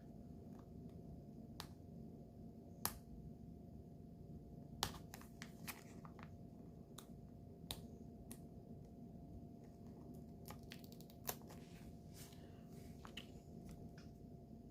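Scattered light clicks and taps from nail-art tools and product containers being handled, about a dozen short ticks over a low steady hum.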